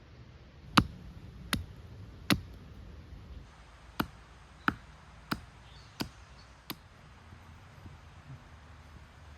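Sharp knocks struck at a steady pace, three and then, after a short pause, five more, about 0.7 s apart, like tent pegs being hammered into the ground.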